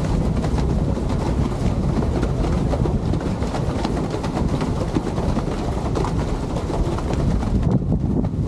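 Steady low rumble of a lake passenger boat under way, with wind buffeting the microphone.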